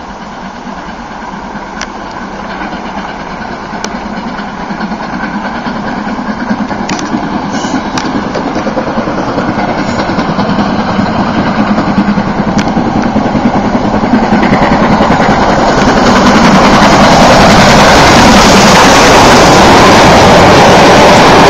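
BR Standard Class 7 'Britannia' steam locomotive approaching on the line, its sound growing steadily louder until it is loud over the last few seconds.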